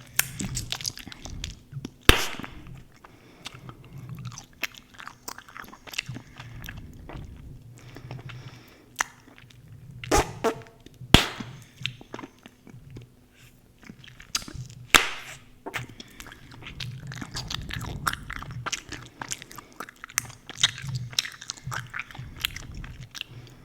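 Close-miked chewing gum: dense, irregular wet clicks and smacks of the mouth working the gum, with a few louder sharp snaps along the way.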